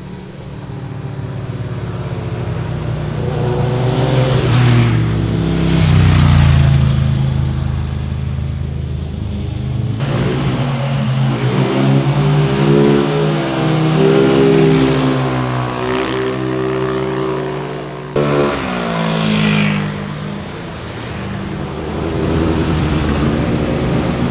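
Sport motorcycles riding past one after another, their exhausts revving, with the engine pitch rising and falling through acceleration and gear changes. The sound changes abruptly about ten and eighteen seconds in as one pass gives way to the next.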